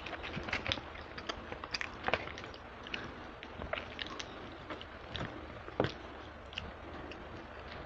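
Close-up eating sounds: chewing barbecue chicken wings, with a run of short, wet clicks and crackles from mouth and sauce-sticky meat.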